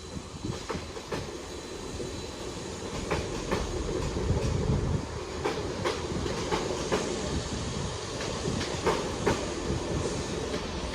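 Transport for Wales Class 756 multiple unit departing the platform, with a low running rumble. Its wheels click sharply over rail joints and pointwork, the clicks coming in pairs a few times as the bogies pass.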